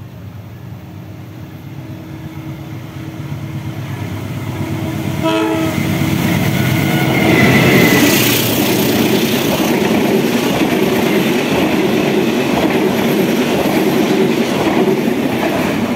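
Diesel-hauled passenger train approaching, its horn sounding about five seconds in. The locomotive passes close around eight seconds in, then the coaches roll past with rhythmic wheel clatter on the rails.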